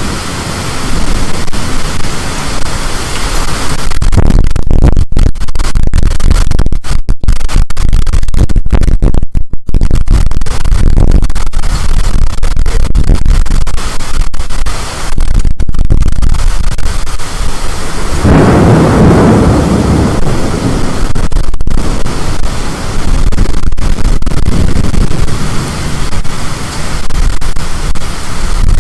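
Storm wind blasting the microphone, a loud continuous roar of buffeting noise with brief dropouts, swelling into a heavier, deeper surge about two-thirds of the way through.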